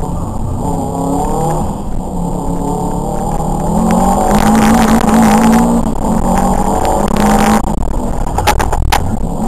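Subaru WRX turbocharged flat-four engine heard from inside the cabin, driven hard: its pitch climbs and drops with the throttle and gear changes. A rushing noise joins in twice in the middle, while the engine is at its loudest.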